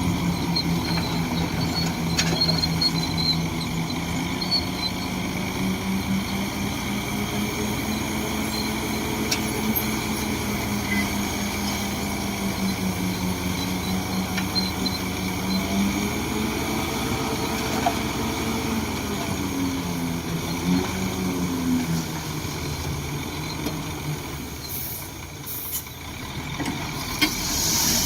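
Shantui DH17C2 bulldozer's diesel engine running as the machine works, its note rising and falling with the load. The engine eases briefly near the end, then picks up again.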